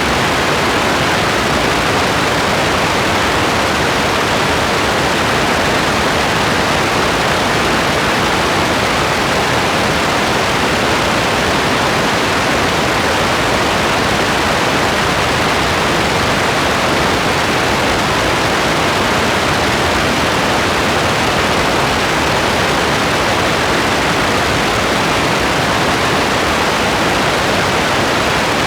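Steady, even rain hiss with no single drops, thunder or other sounds standing out.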